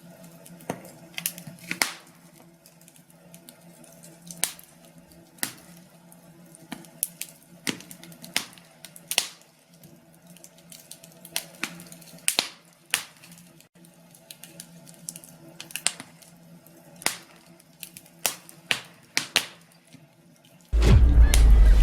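Wood fire crackling, with irregular sharp pops and snaps over a faint steady hum. About a second before the end, loud music cuts in abruptly.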